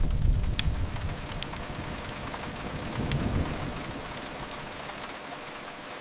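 Steady rain with sharp fireplace crackles every so often, over a low rumble that is loudest at the start, fades, and swells again about halfway through.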